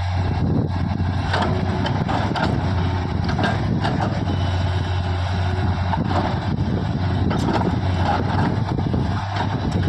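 Heavy diesel engine running steadily with a deep hum, with irregular short clanks and knocks about once a second.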